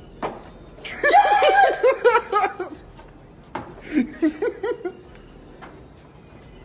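A person laughing hard in a rapid run of bursts lasting about two seconds, then a second, shorter round of laughter.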